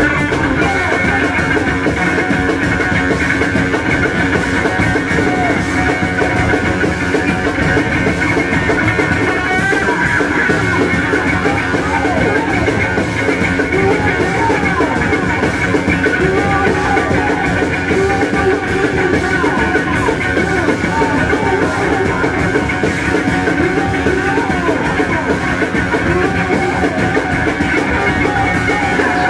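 Loud live noise rock: heavily distorted bass guitar riffing with sliding pitches over fast, pounding drums, one dense wall of sound without a break.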